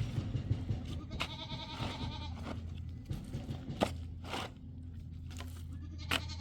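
A goat or sheep bleating: one wavering call about a second in and another starting near the end, over a steady low hum.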